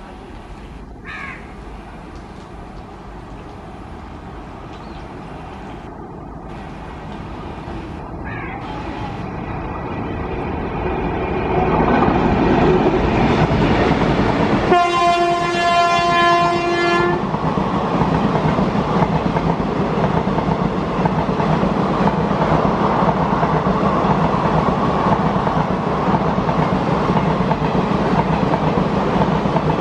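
Indian Railways express train hauled by an electric locomotive, approaching and growing louder over the first dozen seconds. The locomotive's horn sounds once for about two seconds midway. Then the train runs past with a steady rumble and clatter of wheels on the rails.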